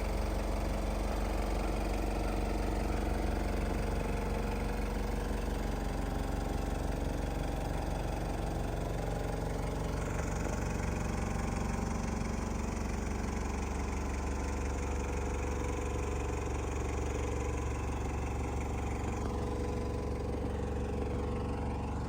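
Toyota Hilux Surf KZN130's 3.0-litre four-cylinder turbo diesel (1KZ-TE) idling steadily, with a low, even hum.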